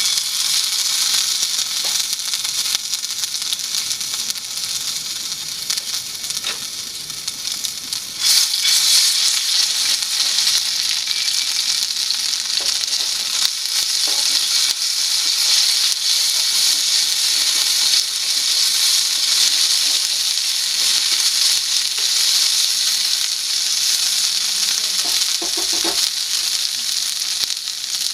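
Chicken frying in hot oil in a pan, a loud steady sizzle that grows louder about eight seconds in, with occasional small pops.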